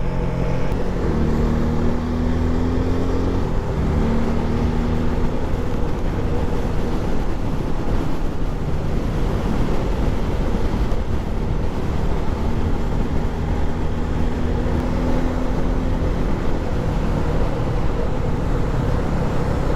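Motorcycle engine running steadily at road speed, its note shifting slightly in pitch now and then, over continuous wind and road noise on the rider's microphone.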